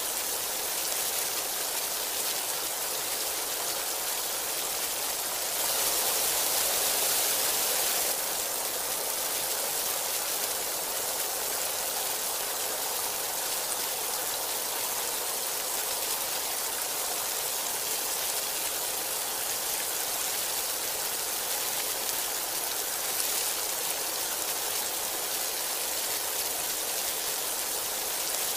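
Heavy rain falling steadily, an even hiss of downpour; about six seconds in it grows briefly louder and brighter for around two seconds, then settles back.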